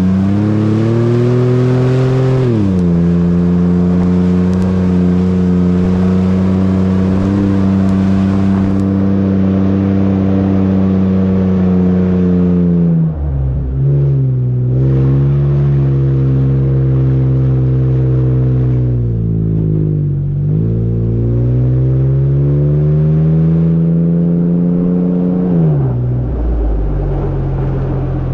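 A 2012 Nissan Xterra's VQ40DE 4.0-litre V6 running hard through its exhaust. Revs climb and drop sharply at a gear change about two seconds in, hold steady, fall away about halfway, then climb twice more before dropping suddenly to a lower steady note near the end.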